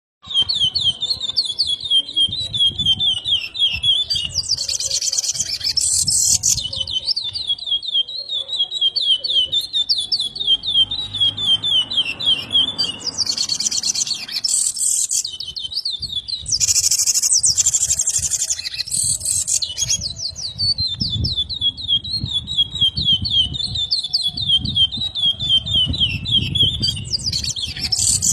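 Chestnut-bellied seed finch (curió) singing without pause, repeating its song phrase over and over: long runs of quick, fast-repeated notes, broken every several seconds by a brighter, higher flourish.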